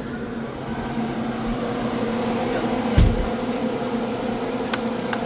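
Steady mechanical hum of indoor machinery, with one low thump about three seconds in.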